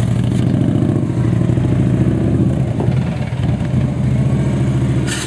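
Victory motorcycle's V-twin engine running at low speed, its pitch shifting somewhat midway, with a brief hiss near the end.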